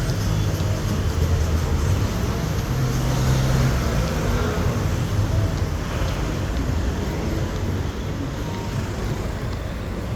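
Steady motor-vehicle running noise: a low engine rumble with a broad hiss.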